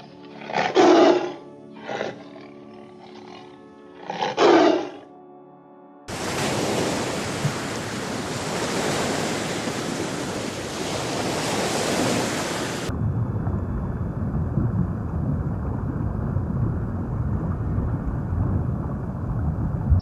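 An animal roaring three times in the first five seconds. Then a steady rushing noise starts, like surf, and turns duller about halfway through.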